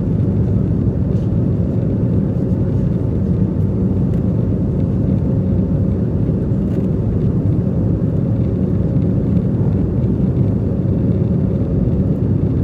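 Airbus A320neo under engine power during takeoff: a steady, loud, low rumble of its Pratt & Whitney PW1100G geared turbofans and rushing air, with a faint steady hum on top, unchanging throughout.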